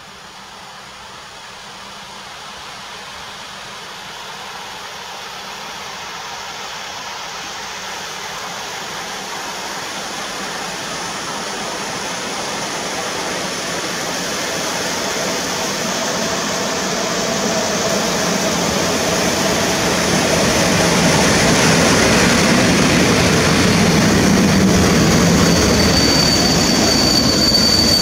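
EP07 electric locomotive hauling a passenger train, approaching and running past, its rumble growing steadily louder for about twenty seconds. Near the end a high, thin squeal of the brakes starts as the coaches roll by and the train slows for its stop.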